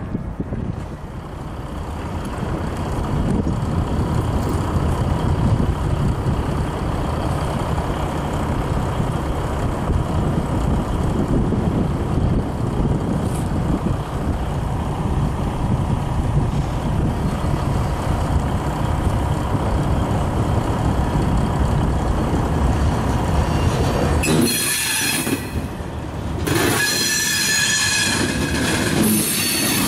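EMD SW1500 switcher locomotives, with twelve-cylinder EMD 645 diesels, rumbling steadily as a freight train rolls past. Near the end the freight cars' wheels squeal with loud high-pitched screeches, broken briefly once.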